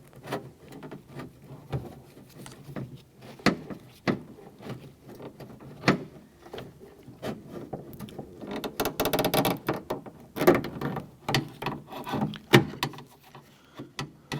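Needle-nose pliers working a plastic locking clip off the lock rod of a door lock actuator inside a car door: scattered clicks and knocks, with a second or so of denser rattling about nine seconds in.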